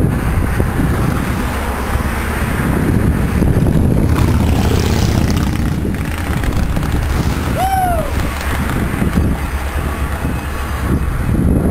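Canadian Pacific diesel freight locomotives running as their train rolls past, a steady low rumble. About two-thirds of the way through, a short squeal rises and falls.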